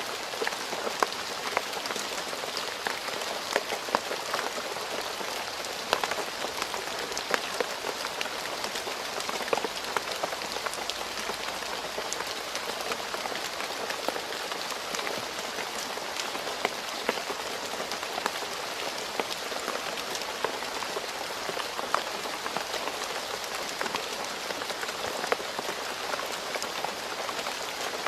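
Steady rain falling on a hard surface, an even hiss with many sharp individual drop ticks scattered through it.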